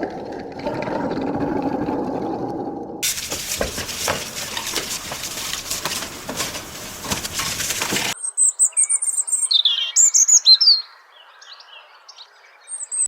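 Three sounds cut one after another: a dense, muffled low noise for about three seconds, then a harsh hissing, rustling noise full of clicks for about five seconds, then a bird chirping in quick high calls and short sweeping notes for the last few seconds.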